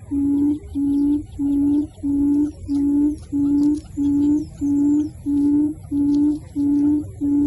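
A low hooting bird call repeated at a very even pace, about one and a half notes a second, with faint high chirps of other birds above it.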